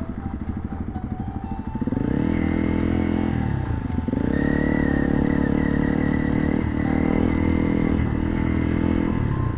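Honda CRF300 Rally's single-cylinder engine under way, picking up revs about two seconds in and accelerating with brief dips in pitch at the gear changes, then easing off near the end.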